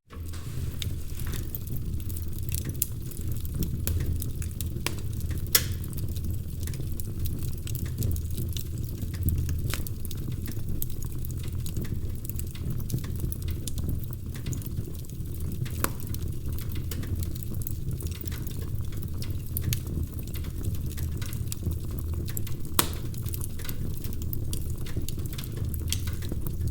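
Wood fire crackling, a constant patter of small crackles over a steady low rumble, with a few louder, sharper pops.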